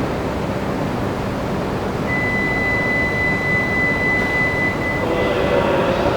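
Steady rumble and hiss of a Shinkansen station platform, with a single steady high-pitched tone held for about three seconds in the middle.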